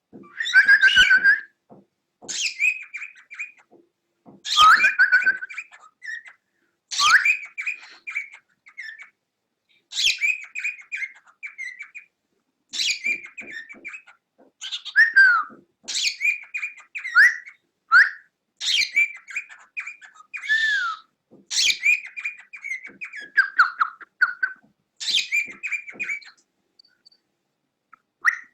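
Cockatiel chirping and whistling in short repeated phrases, one every two to three seconds, each a scratchy chatter with gliding whistled notes.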